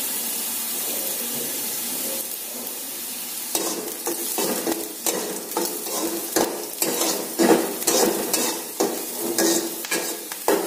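Chopped onions sizzling in hot oil in a metal kadai. About three and a half seconds in, a spatula starts stirring and scraping them round the pan in quick, irregular strokes.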